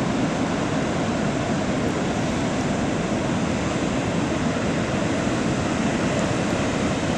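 Steady rushing noise of wind and surf, even throughout, with no distinct events.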